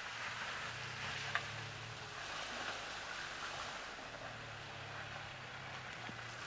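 Dacia Duster 4x4 driving off-road: the engine runs at low, steady revs under an even hiss of tyre and wind noise. A single sharp click about a second and a half in.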